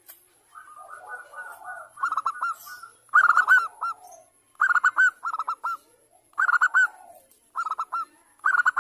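Zebra dove (perkutut) cooing: repeated short phrases of three or four quick, clipped notes, about one phrase every second or so, after softer, jumbled notes in the first two seconds.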